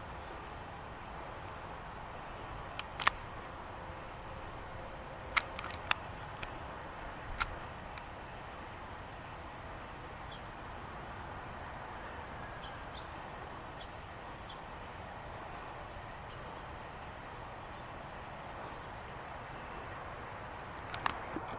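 Faint outdoor ambience: a steady distant hum with a handful of sharp clicks, a cluster of them in the first eight seconds and another near the end, plus a few faint high chirps.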